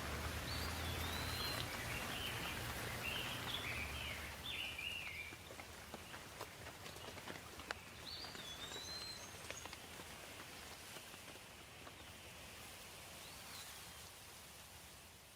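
Steady rain falling, with scattered sharper drop ticks and a bird chirping in short wavy phrases during the first five seconds and again briefly around eight seconds in. The rain eases slightly in level toward the end.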